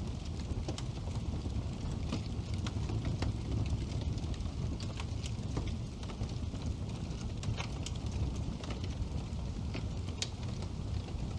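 Wood fire crackling in a fireplace: a steady low rumble of flames with irregular sharp pops and snaps from the burning logs.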